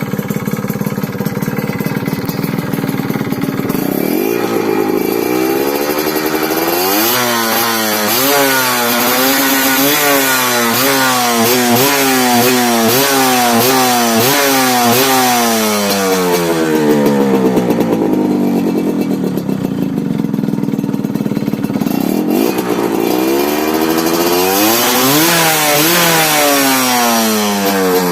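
Honda Tena two-stroke motorcycle engine with a first-generation Honda Dash exhaust pipe, stock bore and closed air-filter box, being revved. It idles for a few seconds, then is blipped repeatedly, pitch rising and falling about once a second, settles briefly, and is revved again near the end.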